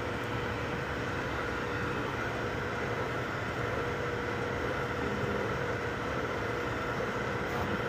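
3D printers at work: a steady mechanical whir with a thin stepper-motor whine whose tones drop out and return as the print moves change.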